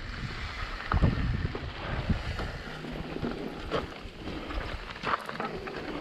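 Wind buffeting the microphone, with a low rumble and a few short knocks.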